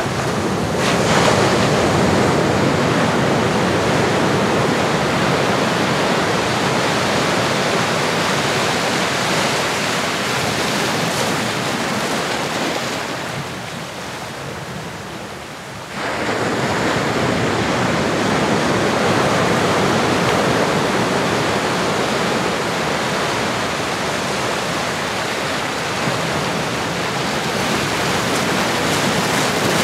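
Ocean surf: a steady wash of waves on a shore. It eases off about thirteen seconds in and comes back suddenly about three seconds later.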